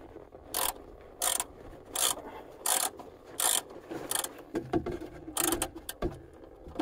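Ratchet wrench clicking in a run of short strokes, about one every 0.7 seconds, as it works a stiff oil pan drain plug loose.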